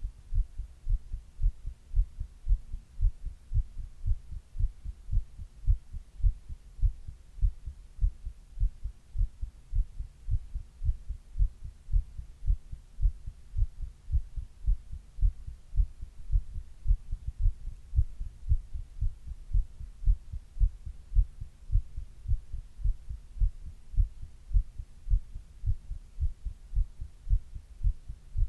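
A person's heartbeat, recorded close up, beating in a steady, even rhythm of low-pitched thumps.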